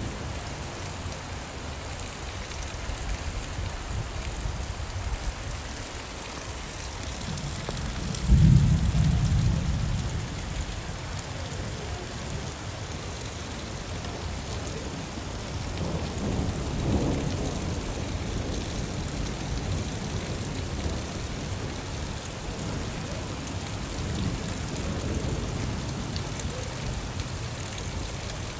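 Steady rain falling, with a sudden clap of thunder about eight seconds in that rumbles away over a couple of seconds, and a softer roll of thunder a little past the middle.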